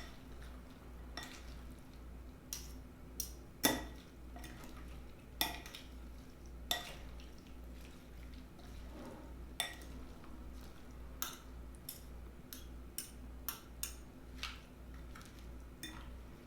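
Utensil clinking and scraping against a dish as a salad is mixed up with dressing: sharp, irregular clicks every half second to a second, over a steady low hum.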